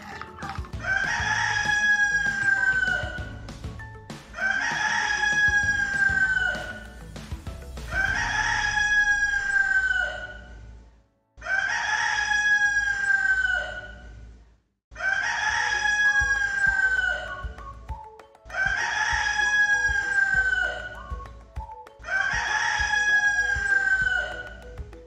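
Rooster crowing seven times, about every three and a half seconds, each crow ending in a long, slowly falling note.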